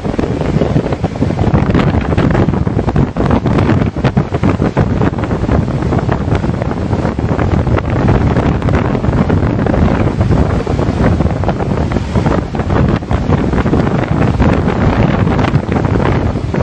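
Storm wind blowing hard and buffeting the microphone in gusts, with rough sea beneath it.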